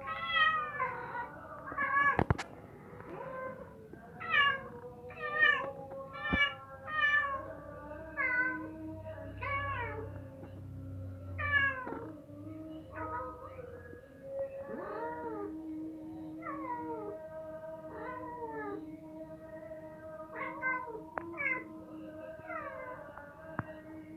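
Mother cat meowing over and over, a long string of falling-pitched calls about one a second, loud at first and softer later in the run, calling for her kittens. Two sharp clicks cut in during the first few seconds.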